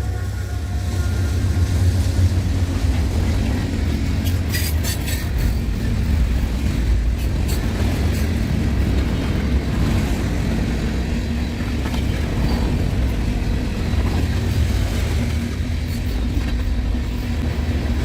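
Freight train rolling past with a steady low rumble, and a few sharp clicks about four to seven seconds in.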